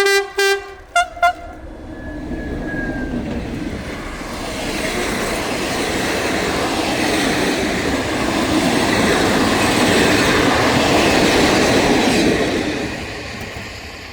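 A heritage train sounds a few short toots, then passes close by, its wheels and running gear building to a loud clatter about ten seconds in and fading away near the end.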